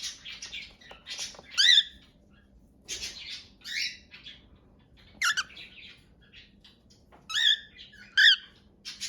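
Pet bird giving short, scattered chirps and squawks with pauses between them, the loudest calls about two seconds in and near the end.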